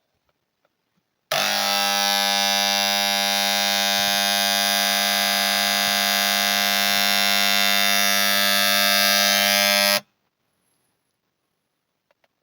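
Electric paint sprayer running with a steady, loud buzz. It starts suddenly about a second in and cuts off shortly before the end.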